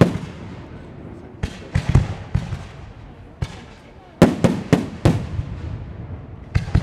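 Aerial firework shells bursting overhead: about ten sharp bangs in quick clusters, around two seconds in, about four to five seconds in and again near the end, each trailing off in a rolling echo.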